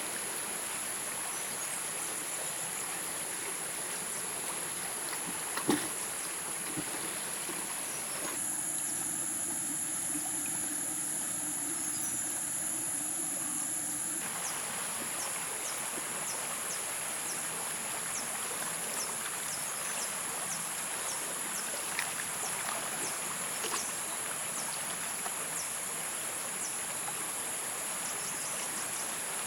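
Steady flowing water of a stream, with a continuous high insect drone above it and faint regular ticking in the second half. A single sharp knock about six seconds in.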